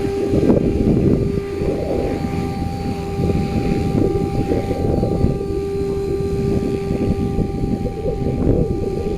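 Goosky RS5 electric RC helicopter in flight, its motor and rotors giving a steady whine, under heavy gusting wind buffeting the microphone.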